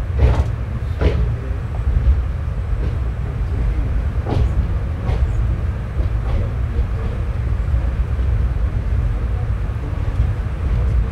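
Express passenger train running, heard from on board: a steady low rumble of the coaches with a few sharp, irregular clicks and knocks of the wheels over rail joints.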